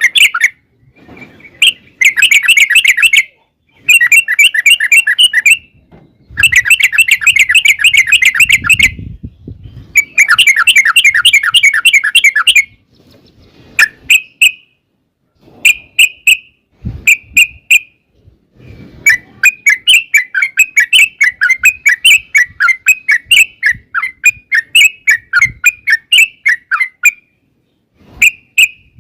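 Yellow-vented bulbul (trucukan) singing fast bubbly chattering phrases in bursts of a second or two, then a long unbroken run of rapid notes in the second half.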